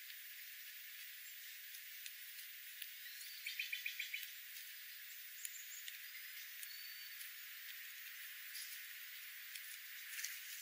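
Birds chirping over a steady high hiss: a quick run of six or seven chirps about three and a half seconds in, then a few short whistled notes, with scattered faint ticks.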